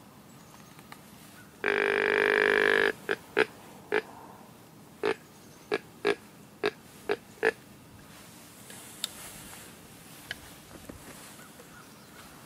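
Deer grunt call being blown: one long drawn-out note about two seconds in, then a string of short, evenly spaced grunts.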